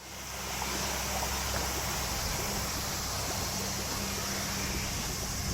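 Steady rushing noise with a low hum underneath, fading in at the start.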